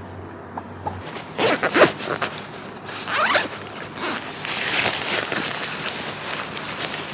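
A tent zipper being pulled in several quick drags, with a longer drag in the second half.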